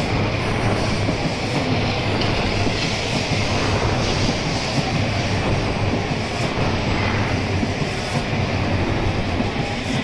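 N700A Shinkansen trainset arriving at the platform, its cars rolling past with a steady, loud rumble of wheels on rail.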